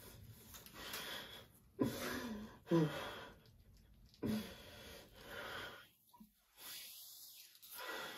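A man's wheezing, gasping breaths with short voiced sobs, three louder ones about two, three and four seconds in, then quieter breathing.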